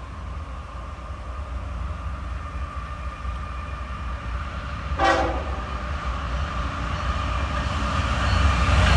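Intermodal freight train approaching behind diesel locomotives: a low engine rumble and a steady tone grow steadily louder, with one short sharp sound about five seconds in.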